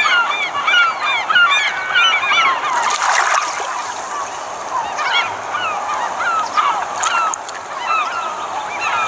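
A flock of swans calling: many short, bent-pitch calls overlapping one another throughout, with a brief rush of noise about three seconds in.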